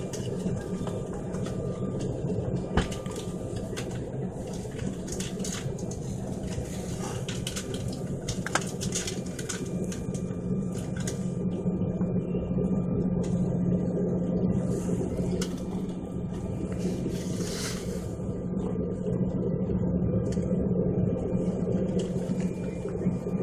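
Steady low drone inside a vehicle, with scattered clicks and rattles.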